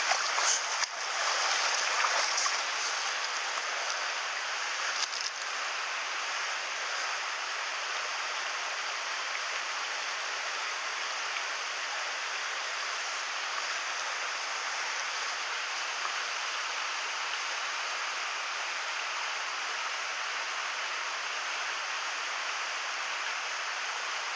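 Mountain stream water rushing steadily over rocks. A few faint knocks fall in the first five seconds.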